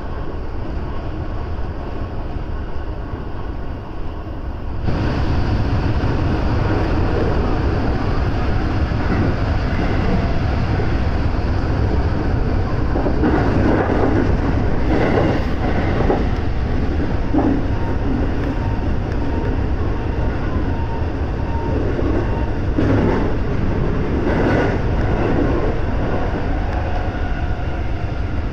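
JR West 223 series electric train running, heard from the front cab: a steady rumble of wheels on rail. It jumps louder about five seconds in as the train enters a tunnel, with louder surges now and then inside it.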